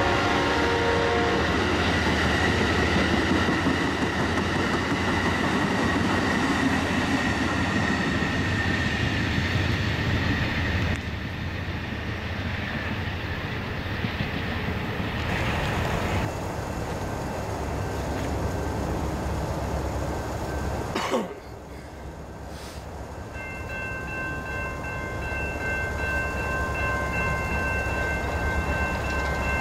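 Passenger train cars rolling past on the rails, a steady loud wheel-and-rail noise that drops off in stages as the train clears. Near the end, a train horn sounds, steady and at a distance.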